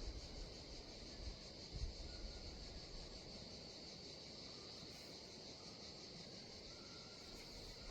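Insects chirping in a steady, high-pitched, pulsing chorus, with a low rumble during the first couple of seconds.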